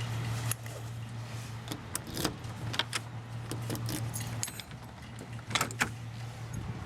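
Metal kitchenware and utensils clinking and clattering in scattered knocks, the loudest a few about two seconds in and near six seconds. Underneath is a steady low appliance hum that stops near the end.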